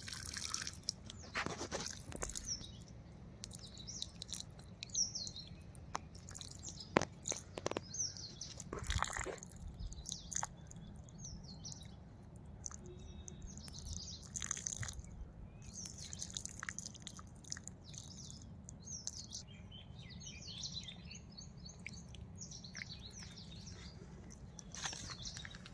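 Birds chirping and calling again and again, with short, high notes, over faint scattered clicks and rustles.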